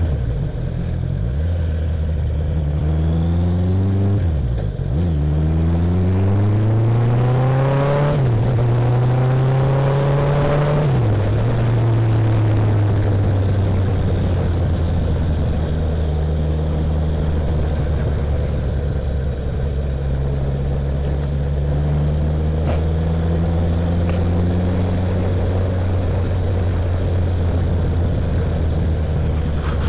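Honda CB650F's inline-four engine pulling under acceleration, its pitch climbing, dipping briefly about four seconds in and climbing again. It then drops back after about eleven seconds and settles into a steady cruise, with wind and road noise throughout.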